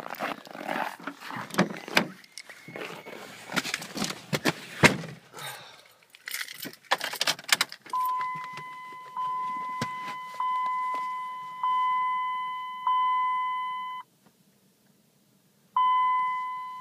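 Keys jangling and rattling, then a Dodge Ram's dashboard warning chime sounding a series of pinging tones about once a second, pausing, and starting again near the end.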